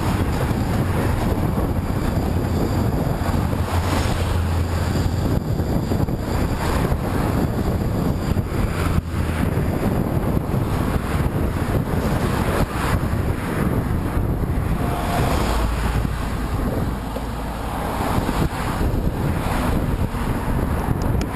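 Strong headwind buffeting the microphone, a dense, steady rumbling wind noise.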